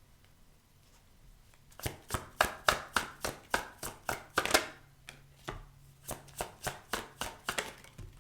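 Tarot cards being shuffled by hand: a quick run of sharp card slaps, about three to four a second, starting about two seconds in, with a short pause just past the middle.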